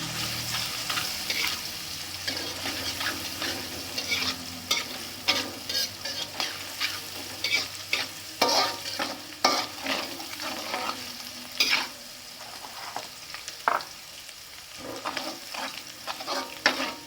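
Ground spice paste sizzling in hot oil in a frying pan while a spatula stirs it, with frequent sharp scrapes and knocks of the spatula against the pan.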